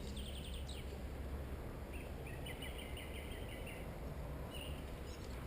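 A small bird chirping in two quick trilled runs, one at the start and a longer one about two seconds in, over a steady low background rumble.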